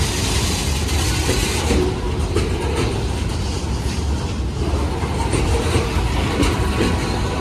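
Train running along the track: a steady low rumble of wheels on rail with a light, irregular clatter.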